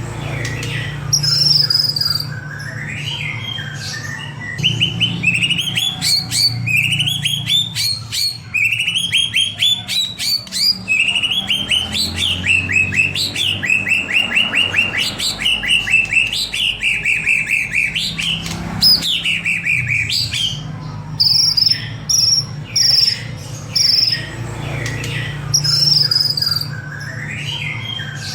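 White-rumped shama (murai batu) singing a long, varied song of whistled phrases and runs of rapid repeated chirps, over a steady low hum.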